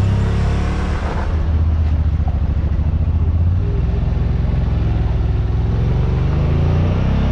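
Side-by-side UTV engine running steadily under way, a low drone heard from inside the machine, its pitch dropping slightly about three and a half seconds in.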